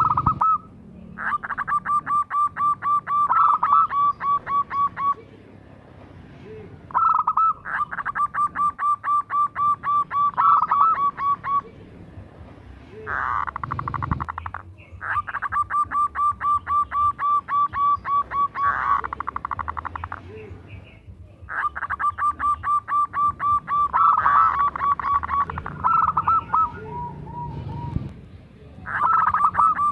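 Zebra dove (perkutut) calling in repeated bouts of rapid, evenly pulsed cooing notes. Each bout lasts a few seconds, with short pauses between.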